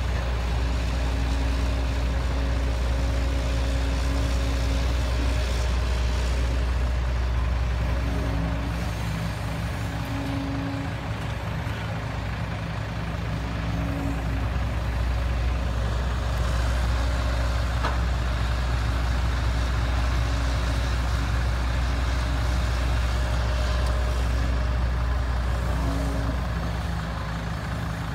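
Heavy diesel machinery engine running steadily with a deep rumble, and a pitched hum that fades in and out several times.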